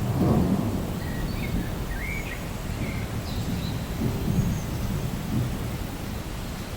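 Rainforest ambience: a steady wash of rain with a low, swelling rumble like distant thunder. A few short bird chirps come between about one and four seconds in.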